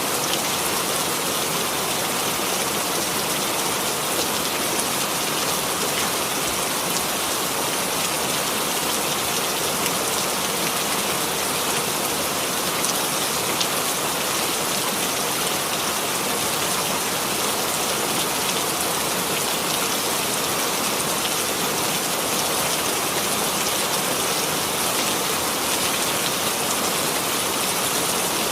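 Steady rain falling, an even hiss of rain on a surface with scattered drop ticks.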